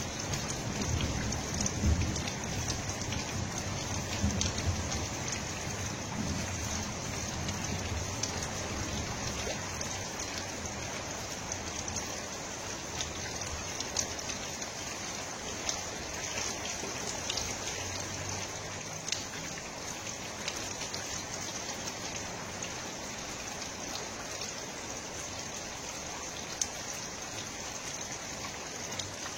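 Steady noise of water, with many small scattered ticks like drops, and a low rumble that fades over the first few seconds.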